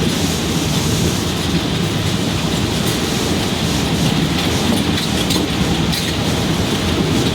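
Moving passenger train: the steady rumble of its wheels on the track, with occasional faint clicks.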